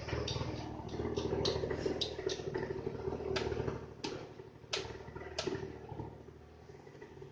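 Honda Gyro Canopy scooter engine, freshly overhauled, running at a low idle with a series of sharp clicks over it. The clicks come about three a second at first, then a few more spaced out, and the engine sound fades lower near the end.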